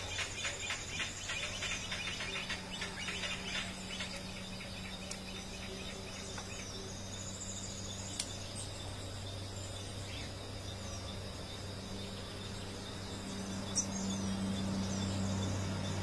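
Wild birds calling: a rapid chattering trill for the first few seconds, then faint, short, high chirps scattered through the rest, over a steady low hum.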